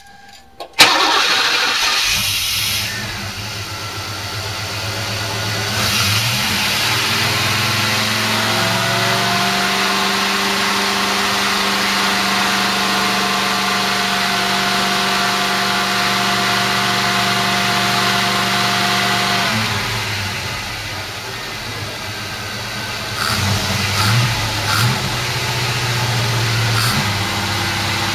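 Chevy throttle-body-injection engine starting with a sudden catch about a second in, then running at a fast idle that holds a high, steady speed for about ten seconds before dropping to a lower idle, with a few brief changes in speed near the end. The high idle comes from the throttle not returning all the way on the newly fitted bored-out throttle body.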